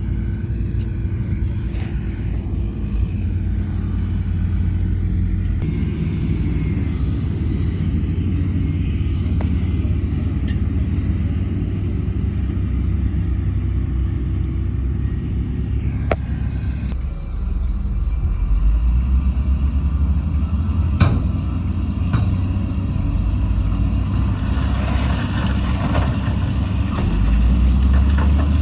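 Heavy diesel engine of earthmoving machinery running with a low steady rumble that shifts in pitch about seventeen seconds in. A few sharp knocks come through, the loudest about twenty-one seconds in, and a hiss follows near the end.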